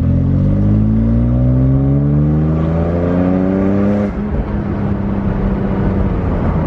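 2009 BMW 135i's twin-turbo inline-six under hard acceleration, its pitch climbing steadily for about four seconds. The pitch then drops suddenly and holds steady at a lower engine speed.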